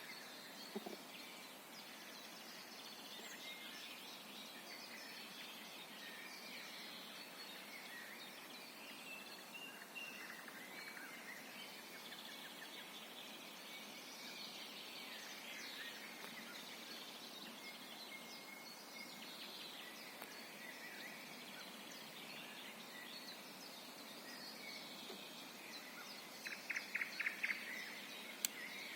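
A chorus of several songbirds singing in a spring forest, many overlapping calls and trills. Near the end one bird gives a loud, fast series of about eight repeated notes.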